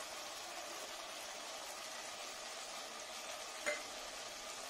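Onion and tomato masala frying in oil in a clay pot, sizzling softly and steadily as a coconut spice paste is scraped in. About three and a half seconds in, a brief scrape of the wooden spatula.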